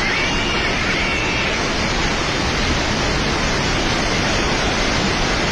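Loud, steady rushing of floodwater.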